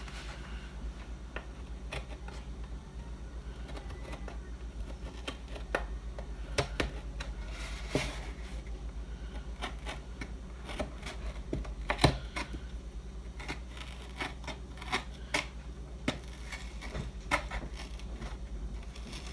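Craft knife scoring and cutting through a paperboard carton in short strokes: a run of irregular sharp clicks and scratches, one louder snap about twelve seconds in, over a steady low hum.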